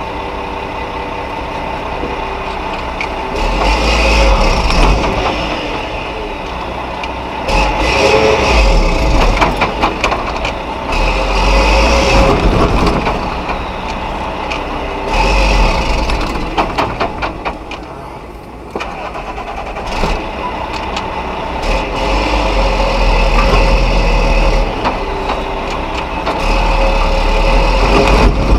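Mack RB concrete mixer truck's diesel engine revving hard in repeated surges, dropping back between them, with rattling during some surges: the fully loaded truck straining to get out of soft sand where it is stuck.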